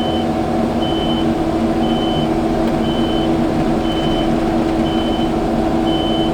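Kubota skid steer's engine running steadily while its reversing alarm beeps about once a second as the machine backs up.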